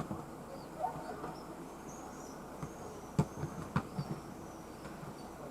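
Swifts screaming faintly overhead in short, thin, high calls, over a steady low city background. Two sharp clicks stand out, a little past three seconds in and again about half a second later.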